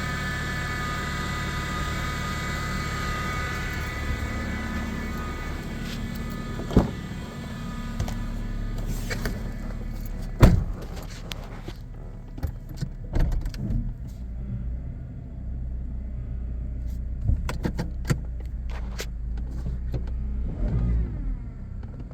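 A 2009 Honda Civic making an unexplained whining noise: a steady high whine of several tones that fades away over the first ten seconds or so. Scattered sharp knocks follow, the loudest about ten seconds in.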